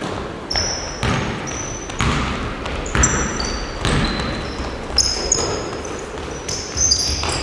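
Basketballs bouncing on a gym floor, an irregular run of thuds, with short high-pitched squeaks scattered among them.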